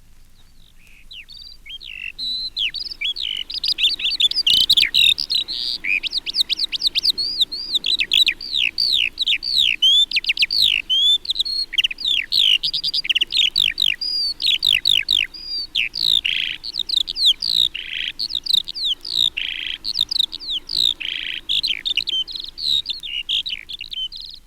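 Skylark singing: an unbroken torrent of quick, high, warbling notes. It fades in over the first couple of seconds, then carries on without a pause.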